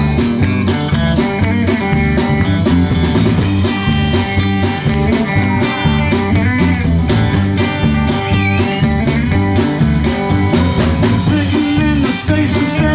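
Live rock band playing an instrumental passage: electric guitar over bass guitar and drums, with a steady beat and bent lead-guitar notes.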